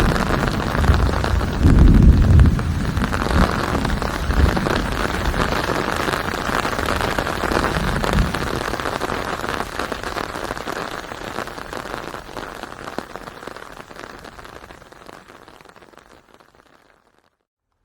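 Steady rain falling, with a low rumble of thunder in the first few seconds. The rain then fades out gradually to near silence near the end.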